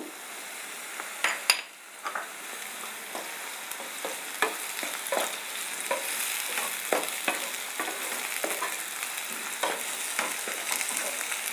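Chopped tomato, onion and green chillies sizzling in hot oil in a nonstick kadhai, stirred with a wooden spatula that scrapes and taps against the pan in quick, irregular strokes.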